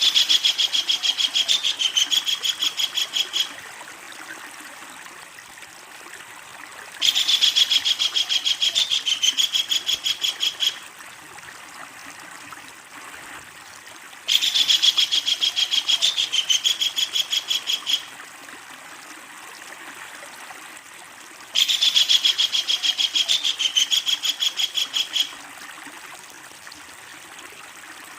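Kingfisher giving its long, loud rattling call: fast runs of repeated high notes, each about three and a half seconds long, four times about seven seconds apart, over a steady background hiss.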